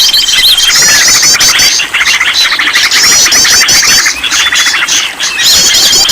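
Bird lure recording: many songbirds chirping and trilling over one another in a dense, loud chorus. A long, steady high whistle sounds at the start and returns about five and a half seconds in.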